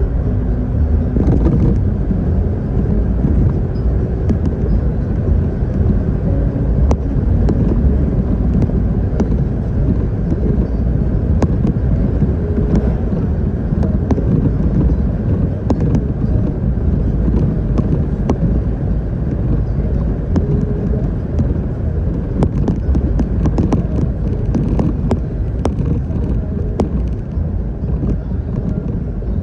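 Stock 2014 Jeep Wrangler Unlimited Rubicon driving on a dirt trail: a steady low rumble of engine and tyres, with scattered sharp clicks throughout.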